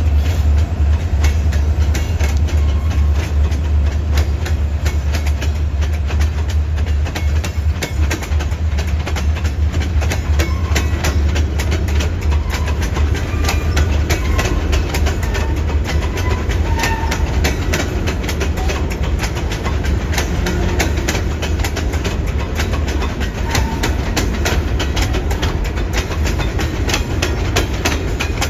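Freight train cars rolling past, their wheels clicking rapidly over rail joints over a steady low rumble. The rumble is heavier in the first half.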